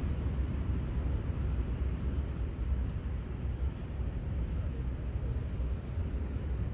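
Seaside outdoor ambience: a steady low rumble with faint high chirps in little groups of about four, repeating every second or two.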